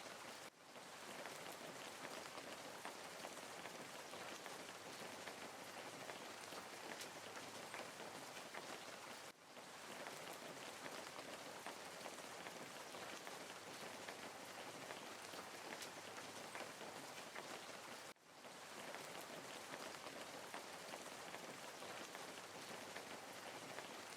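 Small garden waterfall fountain splashing steadily into a pond, a constant patter of falling water. The sound drops out sharply and returns three times, about nine seconds apart.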